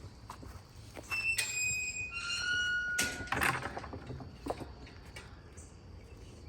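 American Bully dog whining: two drawn-out, high, steady whines starting about a second in, the second lower in pitch. They are followed by a sharp knock and a brief scuffle at about three seconds.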